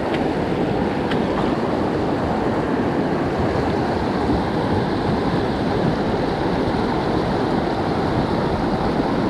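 Steady rushing of a mountain trout creek's running water, an even, unbroken wash of sound.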